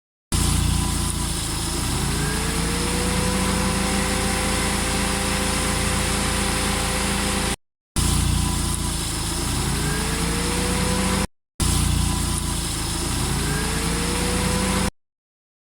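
Car's electric radiator cooling fan under PWM speed control spinning up: its hum rises in pitch over a second or two and then holds steady, over an idling engine. Heard three times, each take cut off abruptly.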